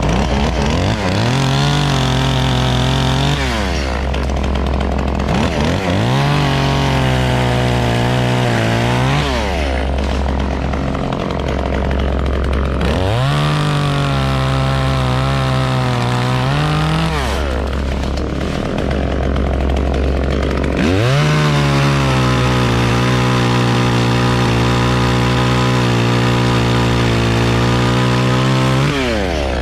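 Chainsaw revving up from idle and held at full throttle through four cuts, dropping back to idle between them; the last cut runs much longer, about eight seconds.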